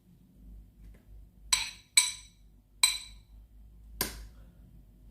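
Four sharp, ringing clinks of a knife striking a hard container, two close together, then one, then one more about a second later.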